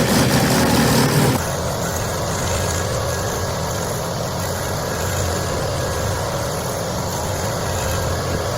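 Heavy wood-processing machinery running loudly and steadily. About a second and a half in, the sound changes abruptly to a slightly quieter, steady low engine drone.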